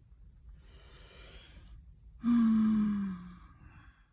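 A sigh: a breath drawn in, then a long voiced exhale that falls slowly in pitch and trails away.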